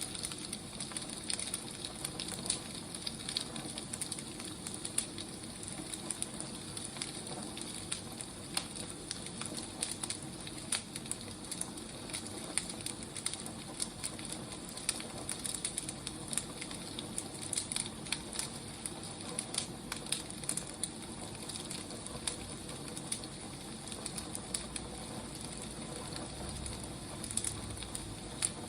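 Firewood burning with a steady soft hiss and frequent sharp, irregular crackles and pops.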